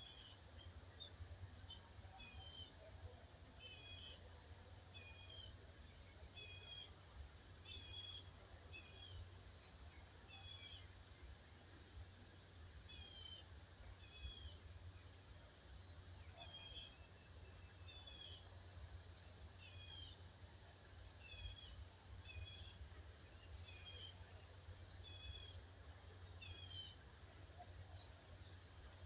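Faint birdsong: a short two-note call, repeated about once a second, over a steady low hum. High, busier chirping swells for a few seconds about two-thirds of the way through.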